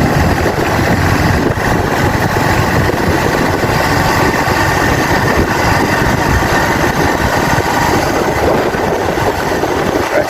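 Motorcycle engine running steadily while being ridden, with an even rumble of riding noise.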